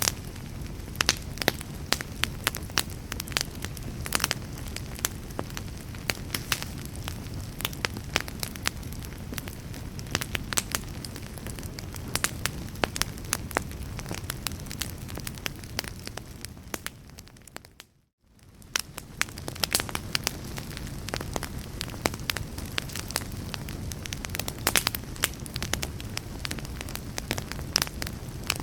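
Wood fire crackling and popping irregularly over a low, steady rumble. About eighteen seconds in, the sound fades briefly to silence and then fades back in, the seam of a looped recording.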